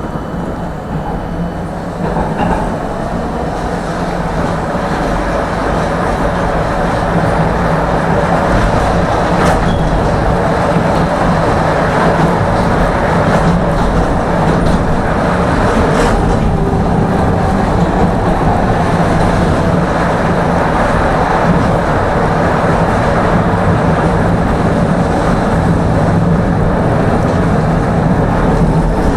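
Tram running on rails, heard from inside the car: the rumble builds over the first several seconds as it picks up speed, then holds steady with a low motor hum. Two sharp clicks come about a third of the way in and near the middle.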